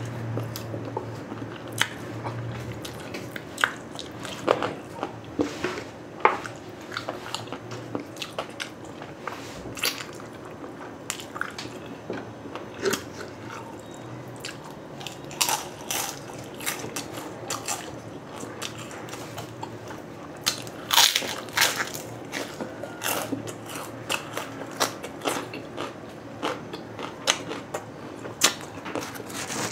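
A person chewing and biting, with wet chewing throughout and frequent sharp crunches of crispy pork chicharon. The crunching is loudest and most frequent about twenty seconds in.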